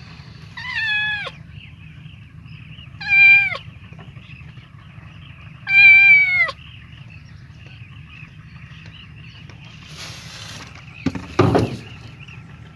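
A cat meowing three times, a few seconds apart, each call falling in pitch, over a steady low rumble. Near the end there is a short rustling burst and a brief loud knock.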